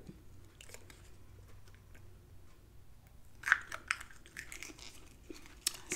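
Close-miked eating sounds from a person chewing food: soft mouth noises at first, then a cluster of short crackly clicks about three and a half seconds in, the loudest moment, and a few scattered clicks after.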